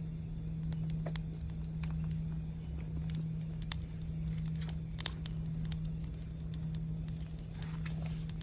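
Campfire crackling with scattered small pops, one sharper pop about five seconds in, over a singing bowl's steady low hum.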